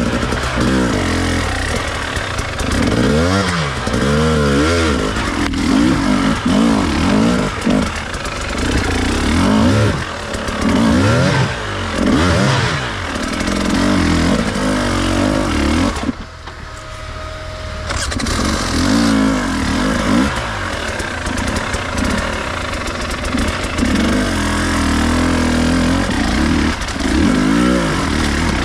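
Enduro dirt-bike engine revving up and down under throttle as it is ridden over rough off-road ground. About two-thirds of the way in, the engine drops away sharply for a couple of seconds, then picks up again.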